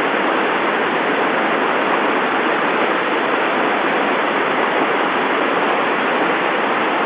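Water of a mountain stream pouring down through a gorge: a steady, even rush with no breaks.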